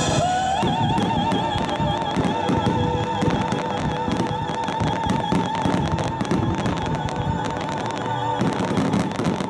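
Aerial fireworks crackling and popping densely, many small bursts a second, thickening near the end. Music plays over them, with one long held note that wavers, which stops shortly before the end.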